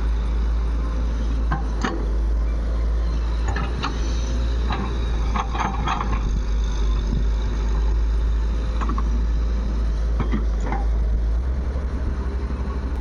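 Heavy diesel engine of the earthmoving and tractor work running steadily, with a low rumble and a scatter of short metallic knocks; near the end the engine's beat becomes a fast, even pulsing.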